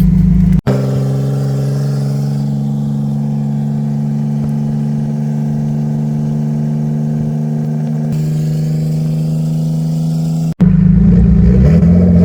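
Vehicle engine running at a steady speed while driving on the road, a constant drone that cuts off abruptly about half a second in and again near the end, where the footage is edited.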